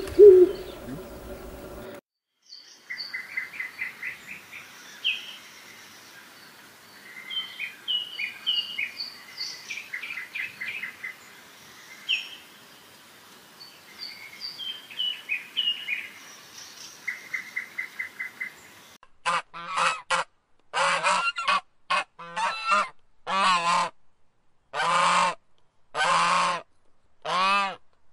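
A songbird sings a string of high chirps and trills. Then, about two-thirds of the way in, a goose starts honking: about a dozen loud honks in quick succession.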